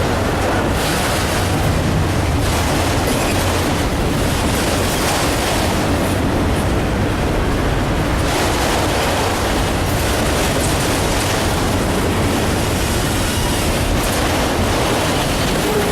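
A train rolling past, its cars making a steady, loud rush of steel wheels on rail.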